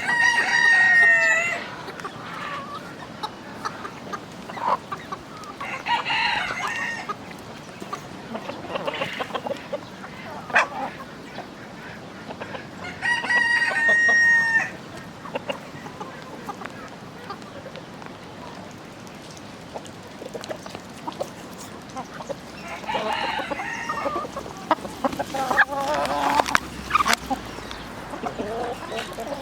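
A rooster crowing twice, at the start and about thirteen seconds later, each crow lasting about a second and a half. Hens cluck in between and more busily near the end.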